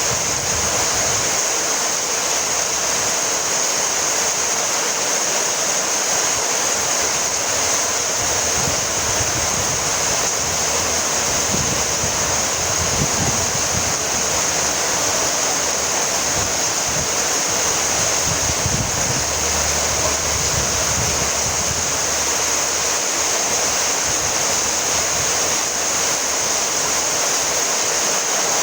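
Steady, heavy rainfall: a dense, even hiss of rain that does not let up.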